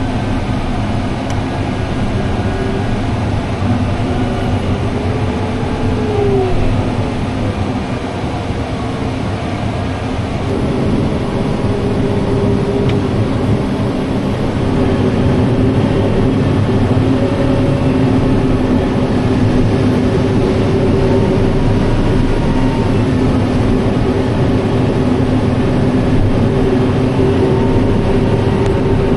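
Heavy diesel farm machinery running steadily under load, a low engine drone with steady whining tones. It grows slightly louder about ten seconds in.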